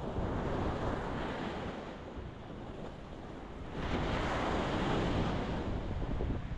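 Ocean waves breaking against a rocky shore, a first wave washing in at the start and a larger one crashing about four seconds in.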